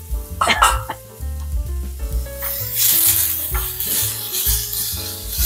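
Moong dal sizzling in hot oil in a steel kadai as a steel spoon stirs and scrapes it around the pan. A few scrapes come in the first second, and the sizzle grows louder from about two seconds in.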